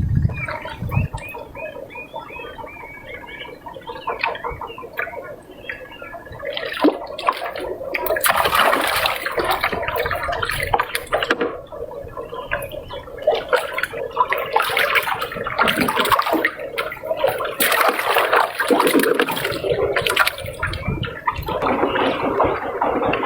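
Water splashing and sloshing irregularly, louder and busier from about eight seconds in, with a quick run of short high chirps in the first few seconds.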